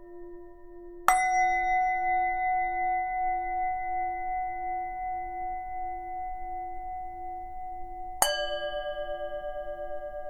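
Tibetan singing bowl struck twice, about a second in and again near the end. Each strike leaves a long ringing tone with several overtones that slowly fades, over a steady lower hum that continues throughout.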